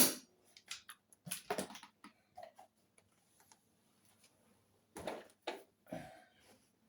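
Handling noise from working on an RC airplane: a scattered series of light clicks and knocks, louder clusters near the start and again about five seconds in.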